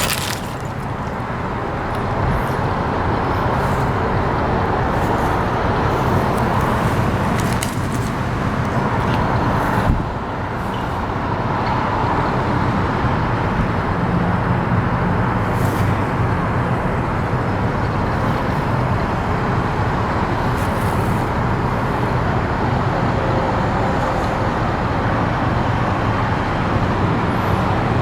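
1966 Chevrolet C-10 pickup's 350 V8 running steadily, a continuous low engine rumble with vehicle noise, dipping briefly in level near the start and again about ten seconds in.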